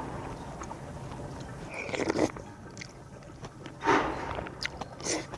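A dog chewing and crunching a cooked pork bone, with a few louder crunches.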